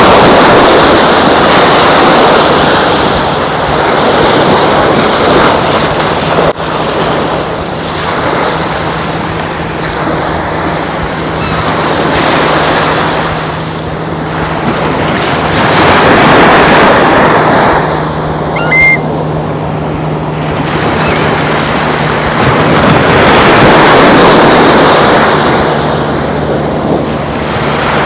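Gulf surf breaking on the beach, swelling and fading in slow waves that peak roughly every eight seconds, with a faint steady low hum from about a quarter of the way in.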